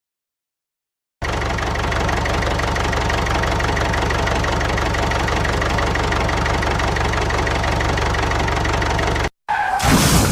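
Engine running at a steady idle with an even, fast pulsing beat; it starts and stops abruptly, as an edited clip.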